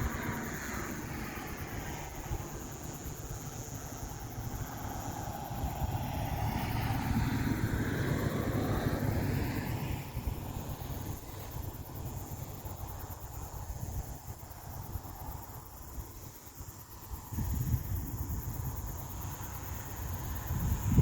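A vehicle going past, its sound swelling and fading over a low, steady rumble.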